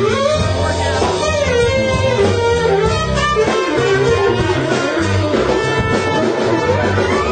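A band playing, led by a guitar line with bending, wavering notes over a steady accompaniment.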